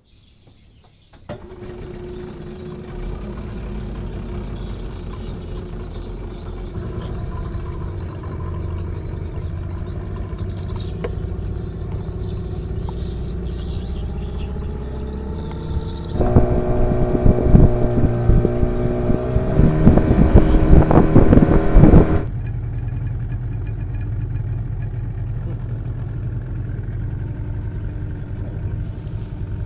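Small boat's outboard engine running steadily, starting about a second in. Its pitch creeps up, then comes a louder stretch of several seconds at higher revs before it settles back to a steady run.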